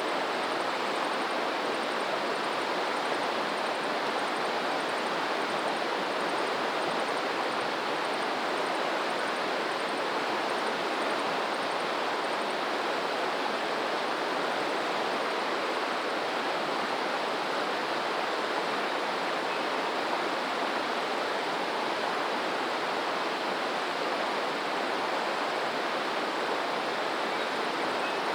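Running water of a stream, a steady, even rush with no swells or breaks.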